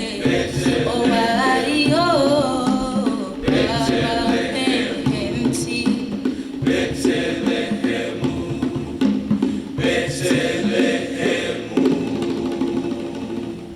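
Vocal music: voices singing a song over instrumental accompaniment, the sound fading down near the end.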